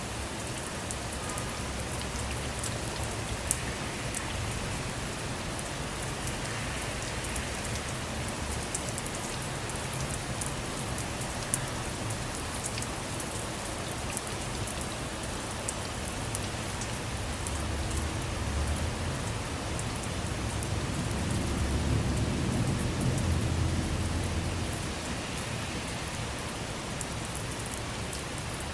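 Steady rain falling on a car, with many fine drop ticks and an occasional sharper single tick. Distant thunder rumbles low, swelling about two-thirds of the way through and fading again a few seconds later.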